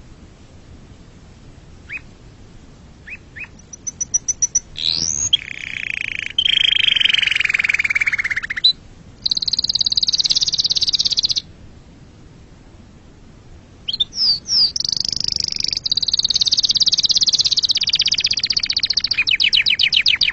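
Domestic canary singing: a few short chirps, then rolled trills and fast, high trills with a pause of a few seconds about halfway through, before a long, rapid trill takes over near the end.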